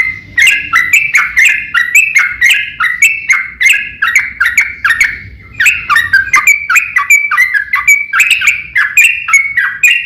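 Yellow-vented bulbul (trucukan) singing in the fast 'ropel' style: a loud, continuous run of short warbled notes several times a second, with barely a break except a brief pause about halfway through.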